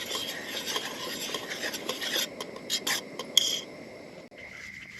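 A spoon stirring and scraping in a camp pot of soup, with sharp clinks, dying away near the end.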